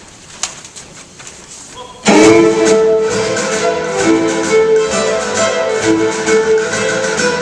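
Faint room sound with a few small clicks, then a live instrumental ensemble with chamber orchestra bursts in about two seconds in, playing a Celtic fiddle tune over a strong plucked-string rhythm.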